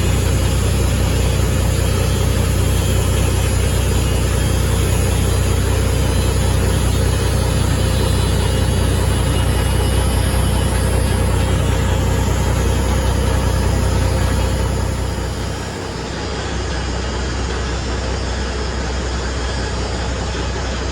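Semi truck's diesel engine running steadily with a continuous low drone.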